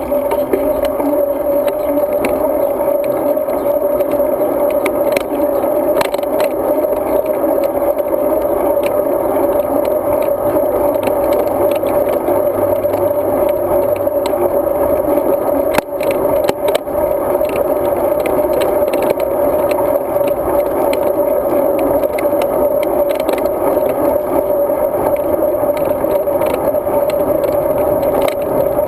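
Steady, muffled road and wind noise of a road bike in motion, with small rattles and clicks from the bike and camera mount over the road surface. A sharp knock stands out about sixteen seconds in.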